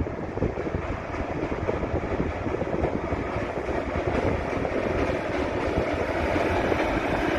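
A railroad crane train rolling along the track: a steady rumble with dense, irregular rattling and knocking from the wheels on the rails, slowly getting louder.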